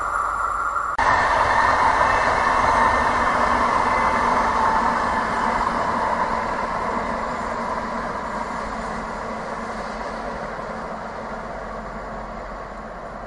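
Deutsche Bahn electric locomotive hauling InterCity coaches past at speed: steady rushing of wheels on rail, starting abruptly about a second in and slowly fading over the second half as the train draws away.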